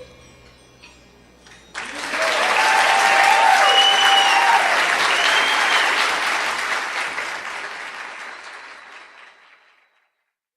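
Live audience applause that breaks out suddenly about two seconds in, with a few whistles on top, then fades away near the end.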